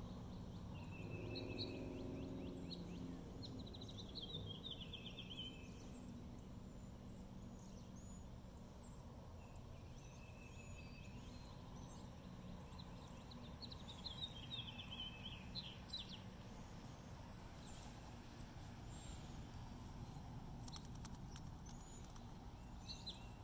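A songbird singing short trilled phrases in two bouts about ten seconds apart, over a faint steady low rumble. A few light clicks come near the end as the fidget spinner is handled.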